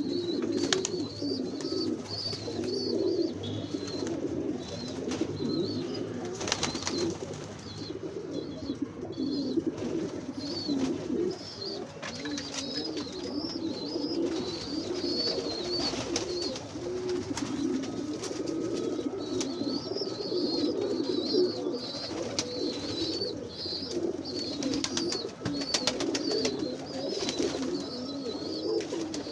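Many doves cooing at once, overlapping and continuous, with a thin high twittering of smaller birds on and off above them.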